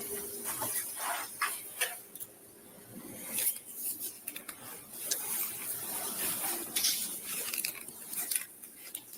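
Scattered rustles, scuffs and light knocks of movement close to a police body-worn camera, with the camera rubbing against the uniform; quieter for a moment about two seconds in.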